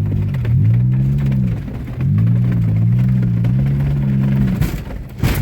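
Straight-piped Buick 3.1 V6, its exhaust and catalytic converter torn off, running hard under acceleration with no muffler. Its pitch rises and falls over the first two seconds, dips briefly, then holds steady. A loud sharp bang comes near the end.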